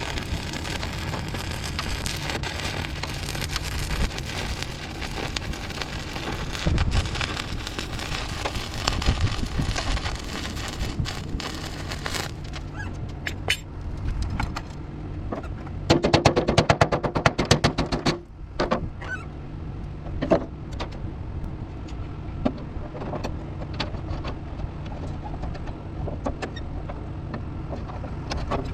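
A welding arc crackling steadily over a low hum, stopping about twelve seconds in. Scattered clicks follow, then a loud two-second burst of rapid crackle.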